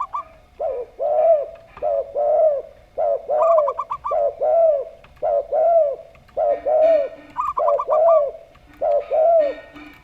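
Zebra dove and spotted dove cooing together: a steady run of low arched coos, broken twice by a quick series of higher, rapid notes.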